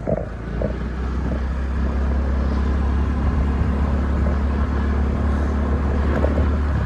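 Motorbike on the move: a steady low engine drone with wind rumble, holding even until it drops off just before the end.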